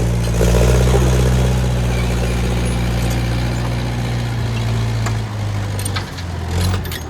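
Engine of an International 125 crawler loader running steadily while loading. Its note drops and changes about five seconds in, and a few clanks come near the end.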